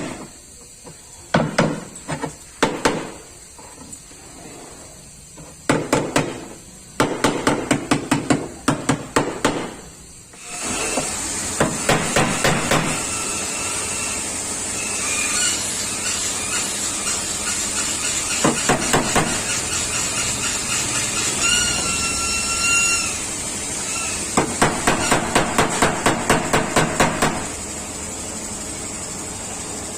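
Hammer blows on a car's sheet-metal body panel, beating out a dent. They come as single strikes and in quick runs of about four to five a second. From about ten seconds in, a steady mechanical noise runs underneath, with a brief squeal a little past halfway.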